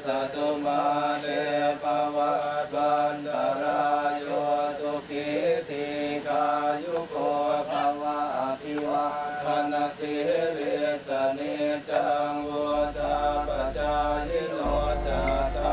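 Buddhist monks chanting Pali verses in unison, a continuous intoned chant over a steady held pitch.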